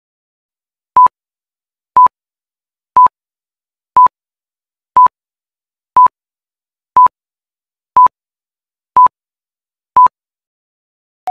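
Electronic timer beeps: ten short beeps of one steady pitch, one each second, counting off the seconds of a quiz answer timer.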